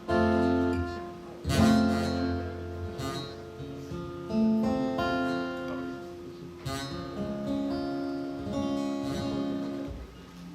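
Acoustic guitar strumming a sequence of chords, each strum left to ring; the playing stops shortly before the end.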